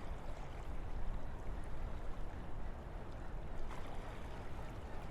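Wind blowing through a forest: a steady rushing noise with a strong low rumble and a few faint ticks.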